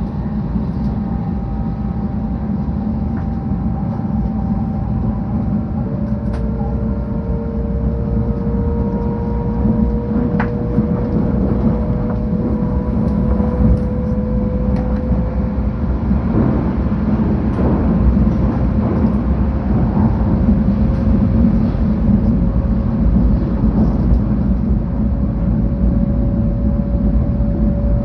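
Interior running noise of a 700 series Shinkansen train at speed: a steady, loud low rumble, with a faint tone slowly rising in pitch.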